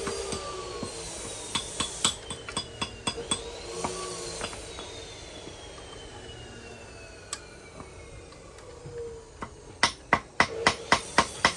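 Hand tools knocking on metal engine parts: a series of sharp metallic taps and knocks, scattered at first, then a quick run of about five a second near the end. A faint high whine falls slowly in pitch in between.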